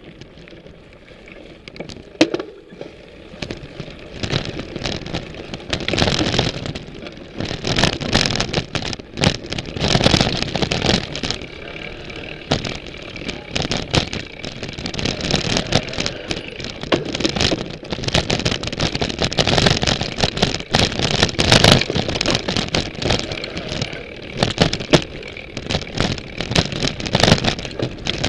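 Ibis Mojo HD full-suspension mountain bike riding over a trail, picked up through its frame: a constant clatter of chain and frame rattles, knocks and rolling tyre noise, quieter at first and building over the first few seconds.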